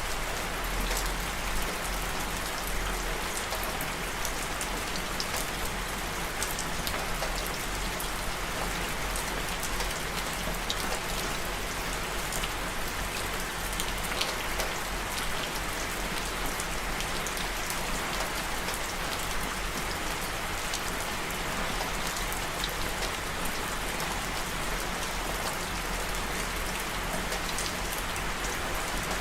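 Steady rain falling, an even hiss of rain with many fine individual drop patters on a surface.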